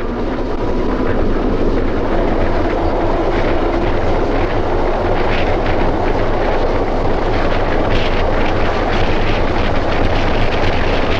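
A 1929 South Shore electric interurban coach rolling along: a steady rumble of wheels on rail, with rattles and clatter from the car running through it.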